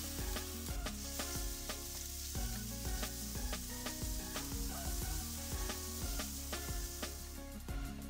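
Ground pork sizzling in hot oil in a non-stick wok as a spatula breaks it up and stirs it, over background music with a steady beat. The sizzling dies down near the end.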